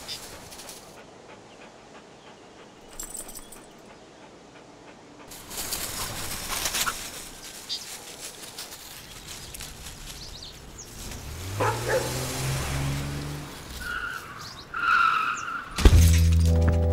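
A car engine revs up rising in pitch, its tires squeal, then a sudden loud hit near the end gives way to a loud low sustained music drone.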